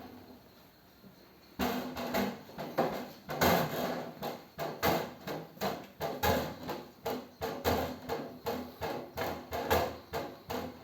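A drum struck by a cat, knocking out a steady beat of about two to three strikes a second that starts about a second and a half in.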